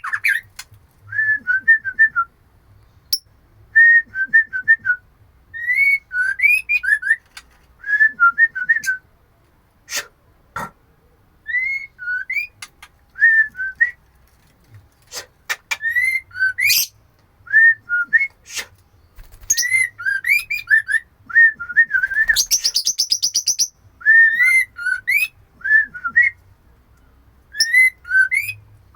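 Female white-rumped shama calling a male: short whistled phrases of a few notes, repeated about every two seconds, with a burst of rapid, harsh chattering a little past the middle. A few sharp clicks fall between the phrases.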